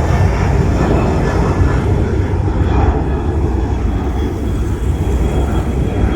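Jet airliner's engines at takeoff power: a loud, steady rumbling roar, heaviest in the low end.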